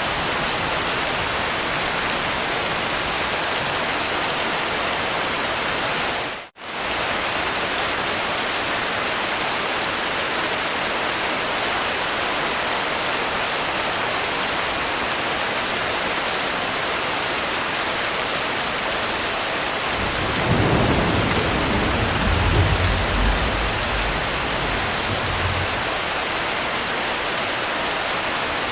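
Steady, even rain hiss. A low rumble of thunder rolls in about two-thirds of the way through and lasts roughly five seconds. The sound cuts out for an instant about six seconds in.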